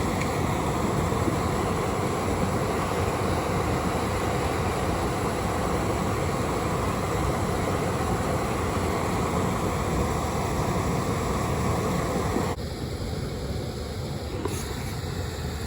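Steady rush of a flowing river over shoals, an even noise without a beat, dropping suddenly to a quieter rush about three-quarters of the way through.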